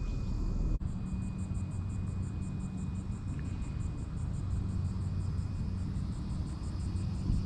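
A steady low rumble with a hum, under a rapid high-pitched pulsing of about five beats a second; the sound drops out briefly just under a second in.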